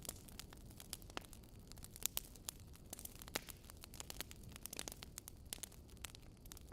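Wood fire crackling: irregular sharp pops and snaps of burning logs over a low, steady rumble of the flames.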